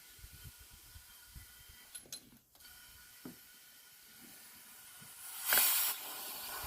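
Faint clicks and knocks of handling metal parts, then a short, loud hiss of compressed air about five and a half seconds in.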